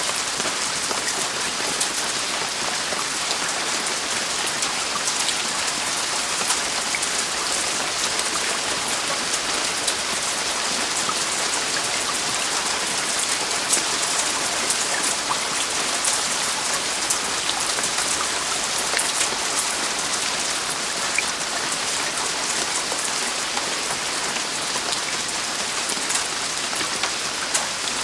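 Heavy rain falling on a roof: a steady, dense hiss of rain with many individual drops pattering on the surface.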